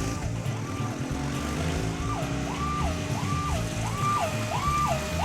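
Police siren wailing in two tones, swinging smoothly between a high and a low note, faint at first and louder from about two seconds in, over a low, engine-like rumble.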